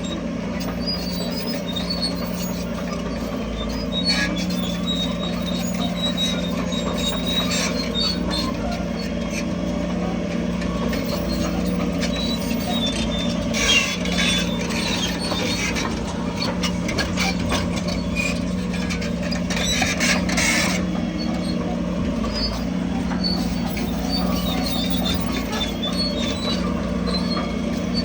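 Crawler bulldozer's diesel engine running steadily under work, with high squeaks and squeals from its steel tracks and two short rushes of noise, about halfway through and again a few seconds later.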